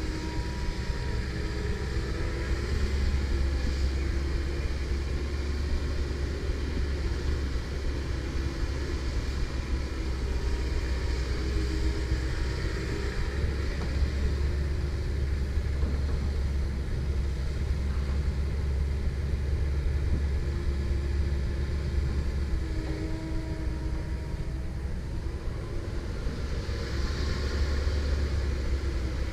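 Komatsu PC170LC-10 excavator running under work, a steady low diesel drone with a whine that comes and goes over it.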